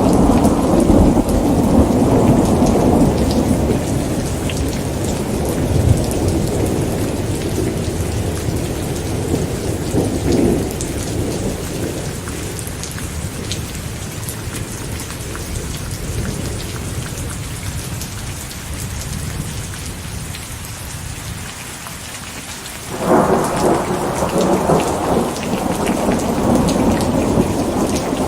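Steady rain with rolling thunder. A long rumble fades over the first dozen seconds, leaving the rain hiss, then a new peal breaks in suddenly near the end and rumbles on.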